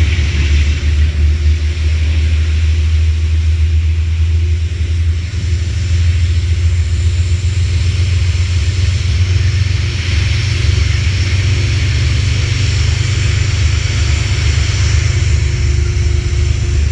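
Amtrak passenger train cars passing close by, a steady loud rumble of wheels on the rails with a rushing hiss above it.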